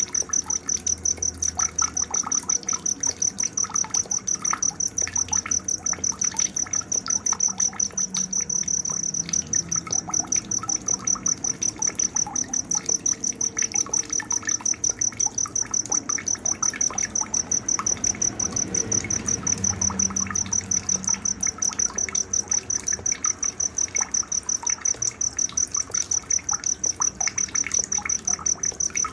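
Night-time insect chorus led by a cricket chirping on and on in a rapid, even pulse on one high note, with faint scattered bird chirps underneath. It is a nature recording of the kind used as masteran song-training material for caged songbirds.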